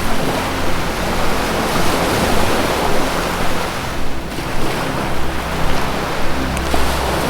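Ocean waves washing in continuously, easing off briefly about four seconds in and then building again. Low sustained music tones hum steadily underneath.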